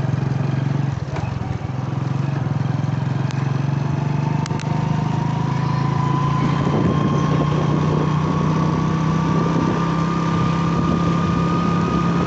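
Motorcycle engine running steadily on the move, picked up by a helmet-mounted phone. From about four seconds in, a higher whine joins it and its pitch creeps slowly upward as the bike gathers speed.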